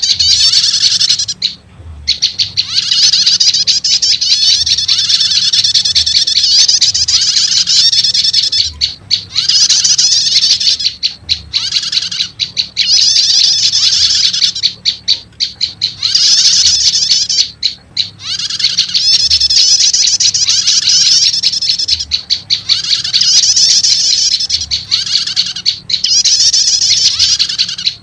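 Bird-lure recording of prenjak lumut calls mixed with prenjak 'stater' calls: rapid, high, busy chirping in phrases several seconds long, broken by short pauses.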